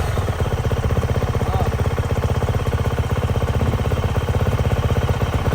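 Brand-new Yamaha YZ450F's 450 cc single-cylinder four-stroke engine idling steadily with an even pulse, being run during break-in.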